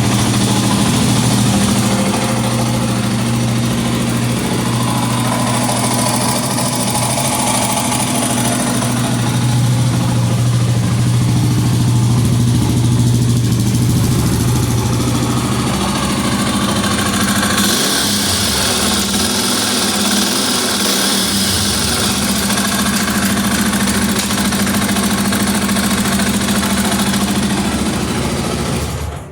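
Honda XR 250 Tornado's single-cylinder four-stroke engine running steadily, its note changing a little past halfway through.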